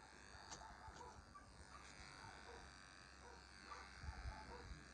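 Faint, steady running of electric pet hair clippers trimming a dog's coat.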